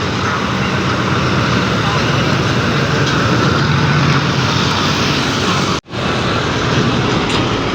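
Heavy truck's diesel engine running with a steady low hum amid traffic noise, cut off abruptly for a split second about six seconds in before resuming.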